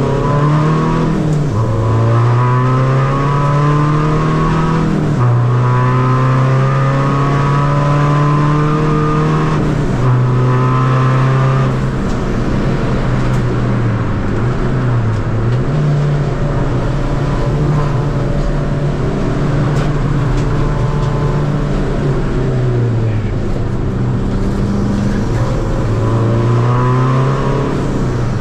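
Tuned 2.0 common-rail diesel engine of a Seat Ibiza FR driven hard, its pitch climbing steadily with the revs and dropping sharply about five times, as at gear changes and lifts.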